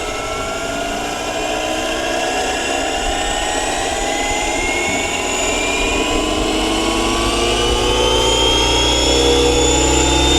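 Electric RC helicopter (Align T-Rex 550e mechanics stretched to 600 size) spooling up: motor and gear whine rising steadily in pitch as the rotor head speed builds, with the rotor noise growing louder.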